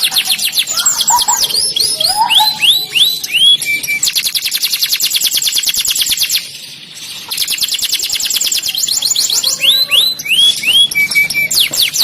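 Domestic canary singing: fast rolling trills alternate with runs of quick, downward-sweeping whistled notes. The song breaks off briefly just past the middle, then goes on.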